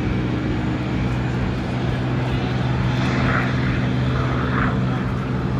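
Aircraft engine running with a steady, even hum.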